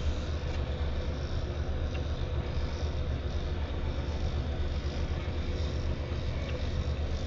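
Steady low rumble of a vehicle running, with an even noise haze over it, as heard from inside the vehicle.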